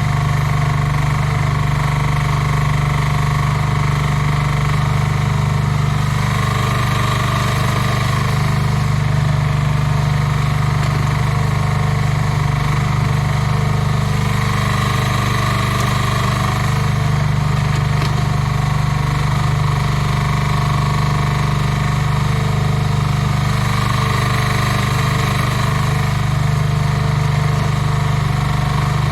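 Small excavator's engine running steadily at an even speed.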